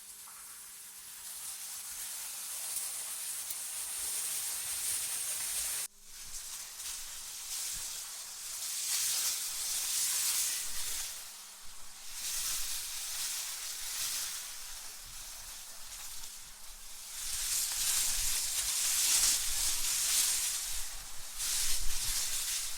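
AI-generated wind, a hissing rush that swells and fades in gusts every few seconds. It cuts out abruptly for a moment about six seconds in, and low rumbling gusts come in near the end.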